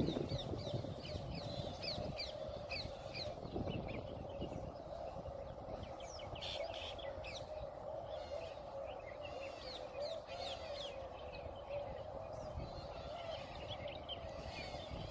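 Many small birds chirping in short, quick calls, over a steady faint hum.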